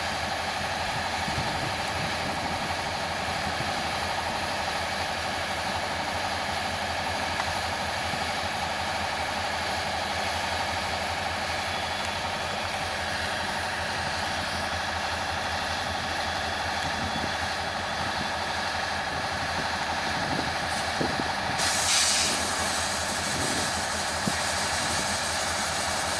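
Canadian National 5291's diesel locomotive engine running steadily as it brings a car into the yard. About 22 seconds in, a sudden loud hiss of air starts and keeps going, typical of the train's air brakes.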